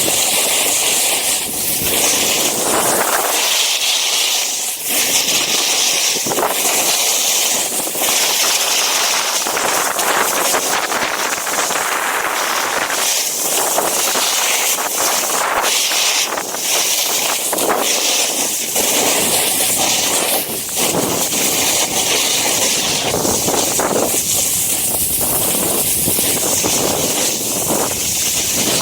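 Strong wind blowing across the microphone: a loud, continuous rushing hiss that surges and dips irregularly.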